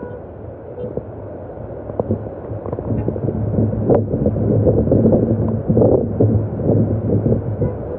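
Rainstorm: wind buffeting the microphone in a low, noisy rumble with scattered crackles, growing louder about three seconds in.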